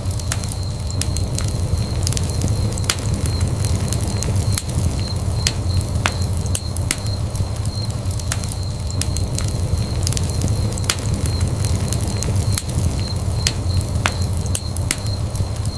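Wood fire burning in a fireplace: a steady low rumble of the flames with frequent sharp, irregular crackles and pops, and a faint steady high tone.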